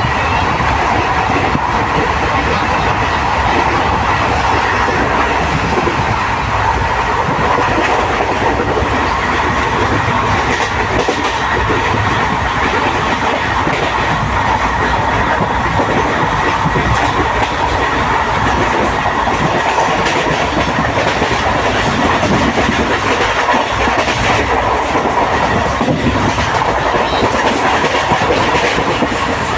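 Passenger train running, with a steady, loud noise of wheels on the rails.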